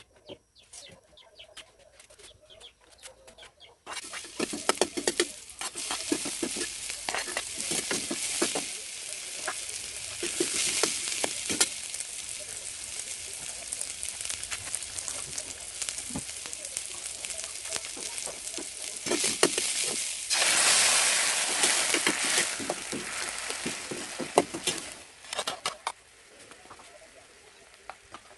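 Sliced garlic frying in hot oil in a metal wok, a loud sizzling hiss that starts about four seconds in. A metal spatula stirs it, with many sharp scrapes and clicks against the pan. The sizzle swells about two-thirds of the way through, then dies down near the end.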